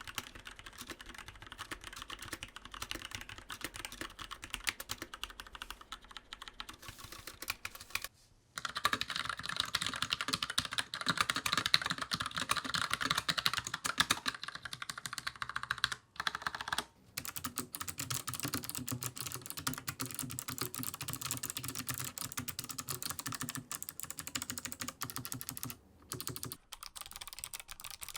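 Typing on mechanical keyboard switches, rapid and continuous. Short pauses about 8, 16 and 26 seconds in separate the stretches, and each stretch sounds different: the second is louder and sharper, the third deeper.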